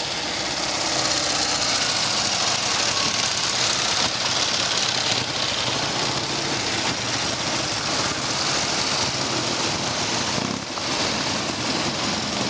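Old British motorcycle engine running steadily, with a brief dip in level about ten and a half seconds in.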